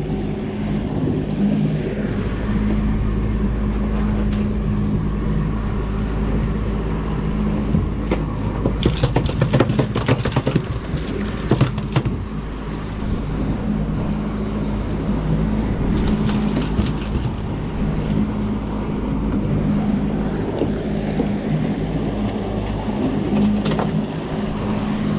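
Fishing boat's engine running steadily under way, with a low rumble. About nine seconds in comes a few seconds of rapid clattering, and a few shorter bursts come later.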